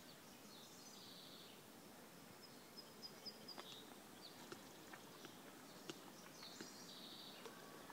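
Faint birdsong: short runs of high chirps about a second in, around three seconds in and near the end, over a quiet open-air background, with a few soft clicks scattered through.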